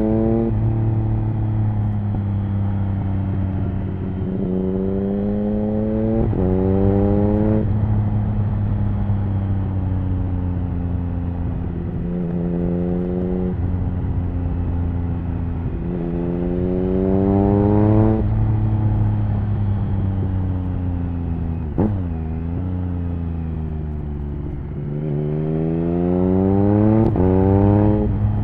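Triumph Speed Triple 1050's three-cylinder engine through an HP Corse Hydroform aftermarket exhaust with its dB killer fitted, under way: the pitch climbs under throttle and drops sharply at each upshift, several times over, with stretches of steady cruising between. Near the end it pulls hard through two quick upshifts in a row.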